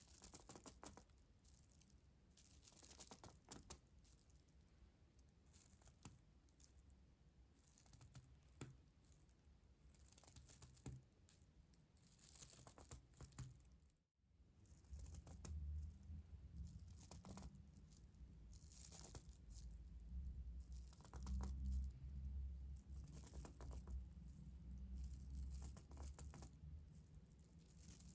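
Close-miked ASMR trigger sounds: soft crinkling and scratching in irregular strokes, with a brief cut about halfway through, after which low rumbling handling noise joins in.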